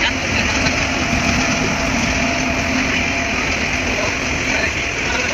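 Loud, steady mechanical running noise of a train.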